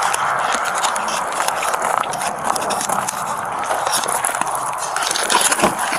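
Irregular clicks, scuffs and rustling from an officer moving about with a body-worn camera, footsteps and gear handling.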